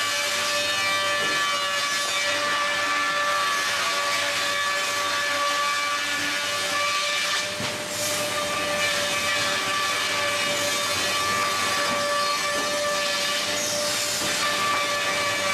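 Double-sided wood planer running with a steady high whine over a hiss, dipping briefly about halfway through.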